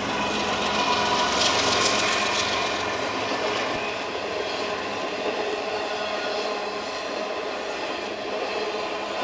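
Intermodal freight train cars carrying highway trailers rolling past on the rails, with a steady running noise of wheels on track.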